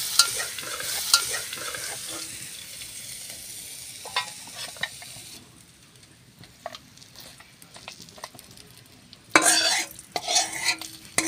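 Bathua greens with peanuts sizzling in mustard oil in a metal wok as a metal spatula stirs them, with sharp clinks and scrapes against the pan; the sizzle fades and cuts off about halfway. Near the end come two loud bursts of metal scraping.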